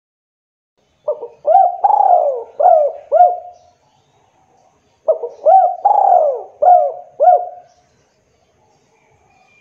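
Spotted dove (tekukur) cooing: two phrases of about five notes each, a little over a second apart. Each phrase holds one longer, falling coo.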